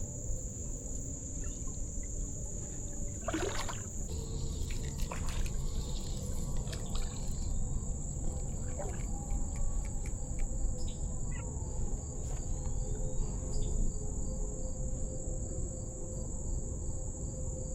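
Steady high-pitched insect chorus of crickets or similar singing insects, over a low steady background rush, with a few faint light clicks.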